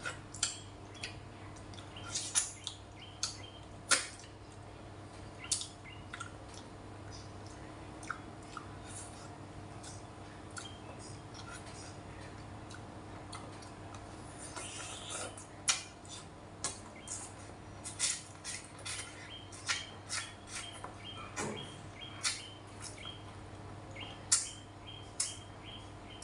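Close mouth sounds of eating crispy fried tra catfish by hand: irregular wet clicks, lip smacks and crunches while chewing. A faint steady hum sits underneath, and short high chirps repeat in the background through the second half.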